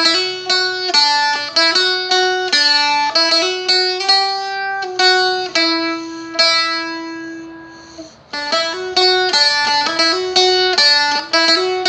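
Seagull Merlin strumstick (a small fretted dulcimer) playing the first part of a quick jig-like melody, picked note by note at about three or four notes a second. One note is left to ring and fade about two thirds of the way through before the run of notes starts again.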